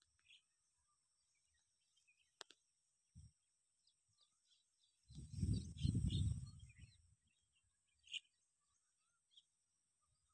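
Scattered, faint bird chirps. About five seconds in, a low rumble lasting about two seconds is the loudest sound.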